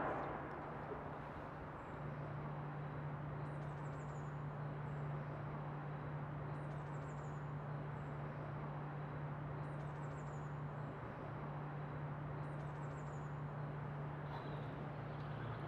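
Steady outdoor ambience: a low hum under a hiss, the hum growing louder about two seconds in, with a short high chirp falling in pitch about every three seconds.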